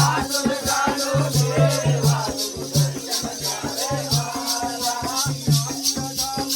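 Jakhadi folk music. A deep drum pattern plays under a steady high jingling rhythm of about four strokes a second, with a melody line winding above.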